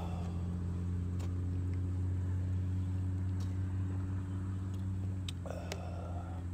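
A steady low mechanical hum, like an engine idling, with a few faint clicks and a short burst of noise about five and a half seconds in.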